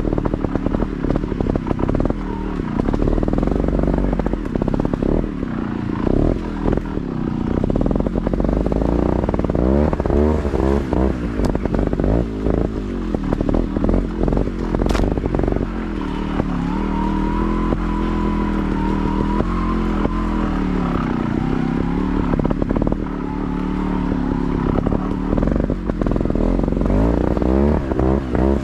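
Motorcycle engine being ridden off-road, its revs rising and falling again and again as the throttle is worked.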